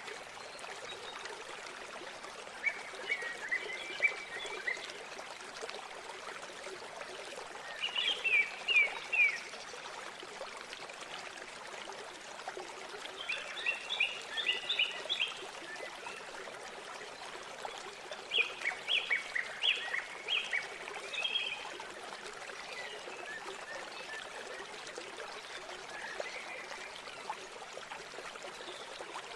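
River water running steadily, with a songbird singing short phrases of quick chirping notes about every five seconds.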